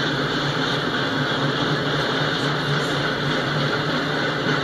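Autorack freight cars rolling past at steady speed: a continuous noise of steel wheels running on the rails and the cars rattling.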